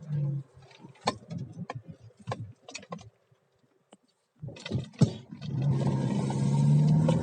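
Scattered clicks and knocks inside a Mitsubishi Pajero iO, with a short quiet gap. About five seconds in, the engine comes in and pulls steadily under acceleration, its pitch slowly rising.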